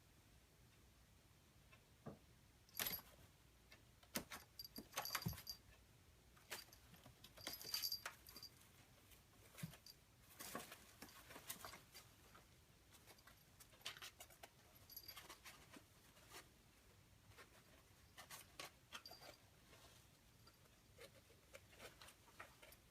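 A kitten playing in an artificial plant: scattered rattling and clicking of its leaves, busiest in the first half, with brief light jingles in some of the bursts.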